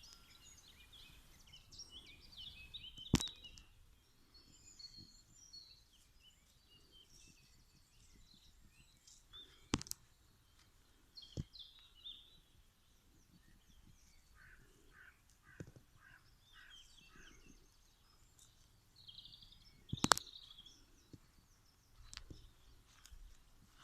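Several wild birds chirping and singing. A few sharp knocks stand out, the loudest about three seconds in and about twenty seconds in.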